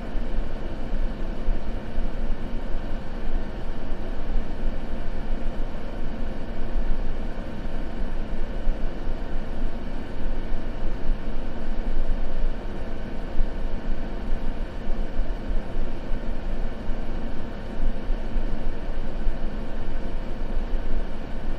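Continuous white-noise sleep ambience: a steady, even hiss with a deep low rumble, and no crackles or other distinct events.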